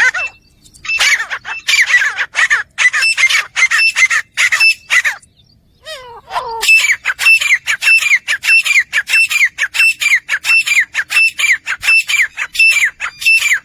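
Grey francolin calling: a loud, rapid series of high, sharply falling notes, about three a second, in two long bouts. There is a short break with a lower falling call near the middle.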